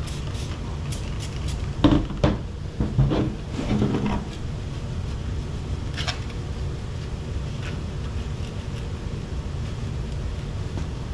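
Light clicks and knocks of the old plastic cabin filter housing being handled, a cluster in the first four seconds and one more about six seconds in, over a steady low hum.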